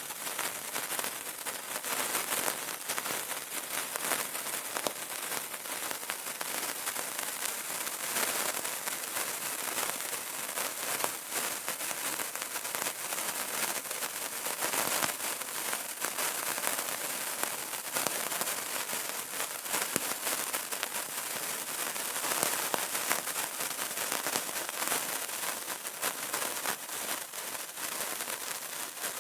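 Burning candle crackling: a dense run of small, irregular pops and snaps over a steady hiss.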